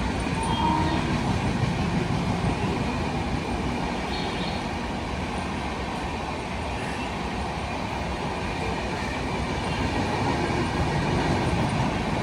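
Kolkata suburban EMU local train running past on the tracks, a steady rumble of wheels and carriages.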